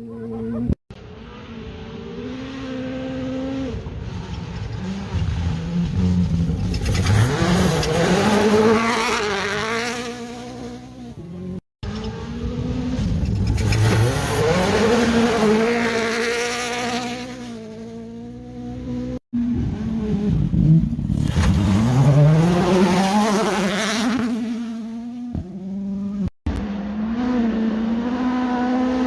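Rally cars driving flat out past the spectator, in several short clips cut together: each engine note swells as the car approaches, then drops in pitch and fades as it goes by.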